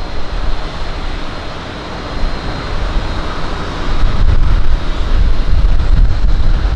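Wind buffeting the microphone in gusts over a steady rushing noise that swells around the middle.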